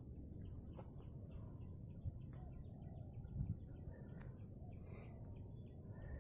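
Small birds chirping in quick, repeated short calls over a low steady rumble, with a soft thump about three and a half seconds in.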